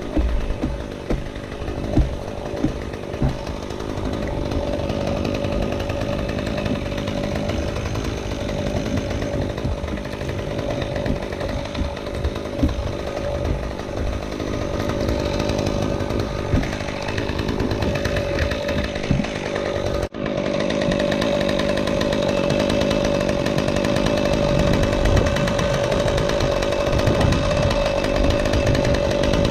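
Chainsaw running steadily at one pitch, with a few sharp knocks in the first few seconds. The sound cuts out for an instant about two-thirds of the way through, then carries on.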